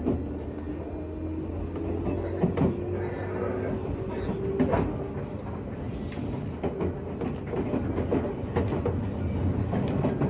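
JR West 201 series chopper-controlled electric train running, heard inside motor car MoHa 201-266: a motor whine rises in pitch over the first five seconds or so as the train gathers speed, with the wheels clicking over rail joints throughout.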